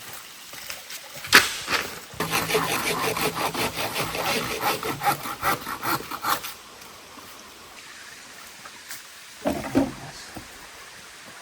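A sharp knock, then a hand saw cutting through bamboo in quick, even strokes, about four or five a second, for some four seconds. A shorter, softer noise follows later.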